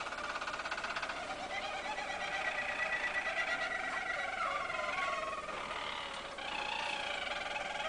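Harzer roller canary singing: a continuous song of rolling trills that shift from one pitch to another every few seconds, with a short dip in level about six seconds in.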